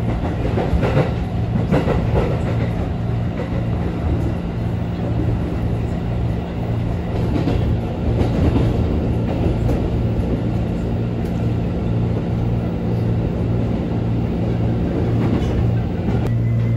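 KRL commuter electric train running along the track, heard from inside the carriage: a steady low hum with an even, rhythmic pulsing and constant rumble and rail noise.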